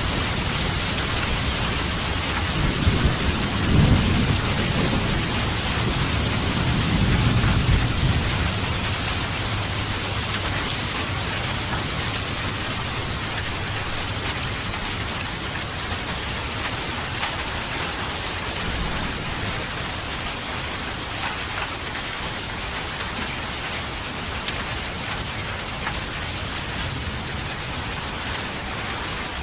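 Steady heavy rain hissing down, with a deep rumble of thunder that swells about three seconds in, peaks around four and again near seven seconds, then dies away, leaving the rain alone.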